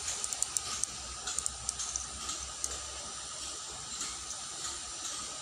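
Steady hiss of water running in a small ditch, with a faint steady high tone beneath it and scattered light high ticks in the first couple of seconds.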